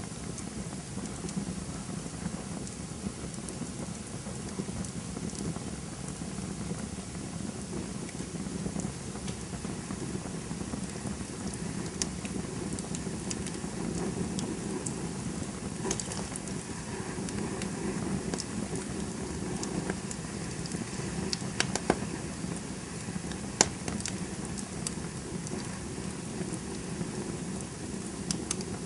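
Campfire burning: a steady low rush of flames with scattered crackles and pops, a few sharper pops in the second half.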